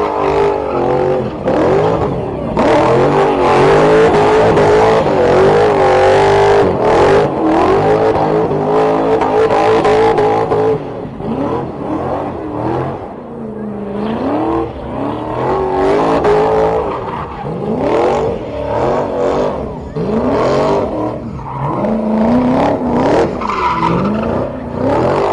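A car engine being revved hard and repeatedly, its pitch climbing and falling every second or two, loudest in the first half.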